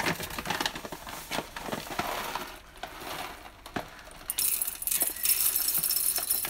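Coffee beans being poured into a burr grinder, rattling and clicking against the container, with a denser steady pour of beans from a little past the middle to the end.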